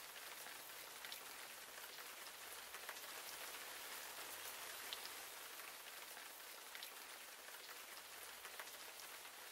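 Steady rain: a faint, even hiss with a light patter of drops.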